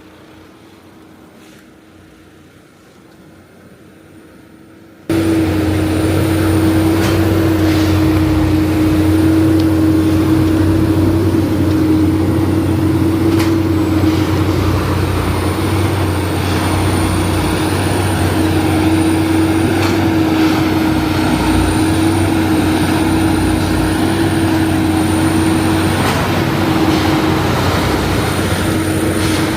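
Duomatic 08-32 rail tamping machine running: a loud, steady mechanical drone with a high whine. It starts suddenly about five seconds in, after a quieter stretch with a few clicks.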